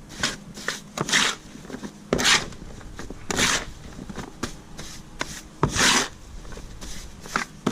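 Hand tool scraping through a stiff sand-and-Portland-cement mortar mix in a mixing box, in repeated gritty strokes about once a second.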